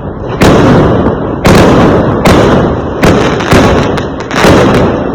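Fireworks going off in quick succession: about six loud bangs in five seconds, each trailing off in a rumbling echo.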